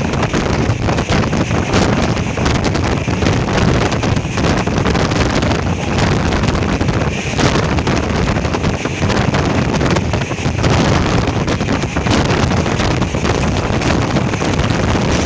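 Strong wind buffeting the microphone: a loud, continuous rumbling noise, heaviest in the low end, fluttering without letting up.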